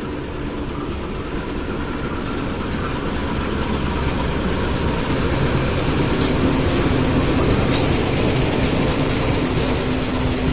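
A train running past, its rumble getting louder over the first eight seconds or so, with a few sharp clicks.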